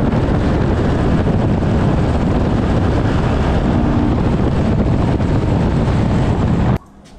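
CFMoto adventure motorcycle riding at speed: steady engine running mixed with heavy wind rush on the microphone, cutting off suddenly near the end.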